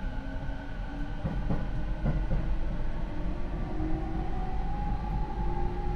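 Rinkai Line 70-000 series train with Mitsubishi IGBT inverter and MT73 traction motors, accelerating: the inverter and motor whine rises slowly in pitch over the rumble of the running gear, with a few clacks over rail joints one to two seconds in. This car's motor noise is unusually loud.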